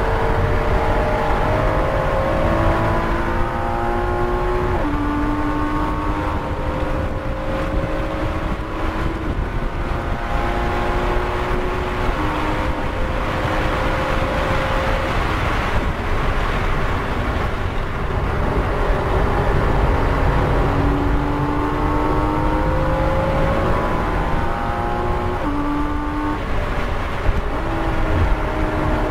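2014 Porsche Cayman S's flat-six engine under hard acceleration, heard from inside the cabin. Its pitch climbs through the revs and drops sharply at each upshift, in the first few seconds and again in the last third. Steady road and wind rumble runs underneath.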